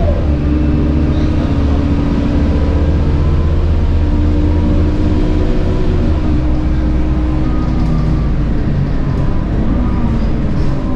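Scania K230UB bus running on its 9.3-litre DC9 diesel engine through a ZF Ecomat 6HP504C six-speed automatic gearbox, with a high-pitched whine over the engine note. Right at the start the pitch drops quickly as the gearbox changes up, then holds nearly steady, and near the end it falls again.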